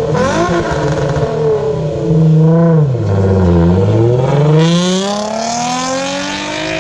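Nissan Z car with an aftermarket exhaust being revved while standing still: the engine is held high for a moment, drops back about three seconds in, then climbs in a slow, steady rise.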